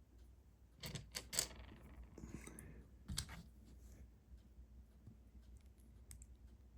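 Small plastic Lego pieces clicking as they are handled and fitted together: a quick cluster of sharp clicks about a second in, another click about three seconds in, then a few faint ticks.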